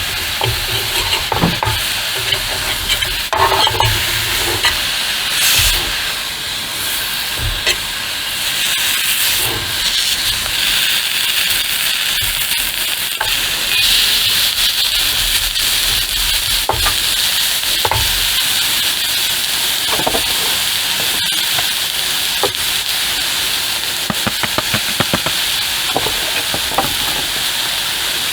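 Steady hiss of rain falling, with scattered sharp taps and crackles of drops, which come thicker near the end.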